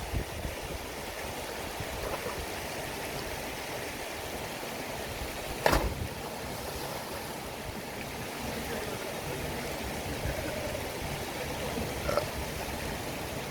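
River water flowing steadily. A single sharp knock sounds about six seconds in.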